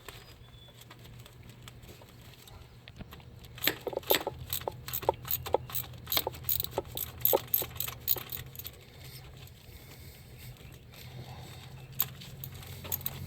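Quick irregular metallic clicks and rattles of hand tools as the nut on the starter's main battery-cable terminal is run on and tightened, over a steady low hum. The clicking starts a few seconds in and stops partway through, with a few more clicks near the end.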